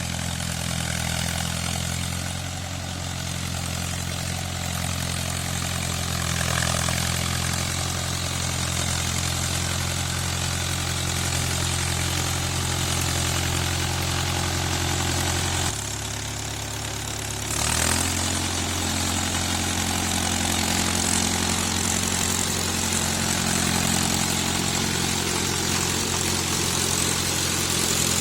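Mahindra Yuvo 575 DI 4WD tractor's diesel engine running steadily. About sixteen seconds in its pitch drops for a couple of seconds, then rises quickly back as the engine picks up again.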